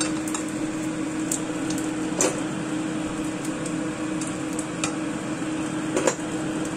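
Egg and shrimp omelette frying in hot oil in a nonstick pan: a steady sizzle with many small crackling pops, over a steady low hum. Two louder knocks stand out about two seconds in and near the end.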